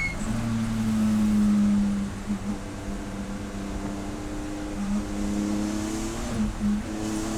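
Race car engine running hard at steady revs, then easing about two seconds in and climbing in pitch again, with brief breaks around five and seven seconds in, like gear changes.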